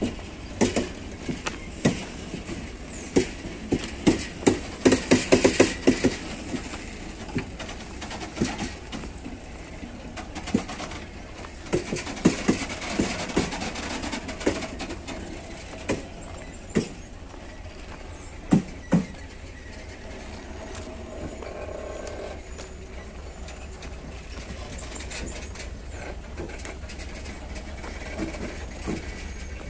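Freight train on the move: irregular knocks and bangs over a steady low rumble, thickest about five seconds in, with scattered louder knocks later.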